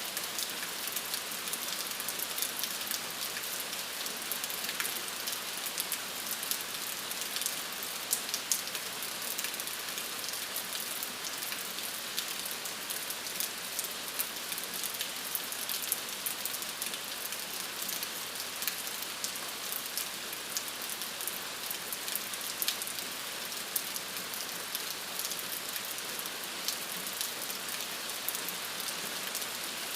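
Steady rainfall: an even hiss of rain with many small, sharp drop ticks scattered through it.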